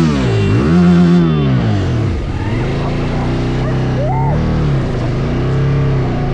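Voge DS625X motorcycle engine revving up and falling back twice, then settling to a steady pull under way.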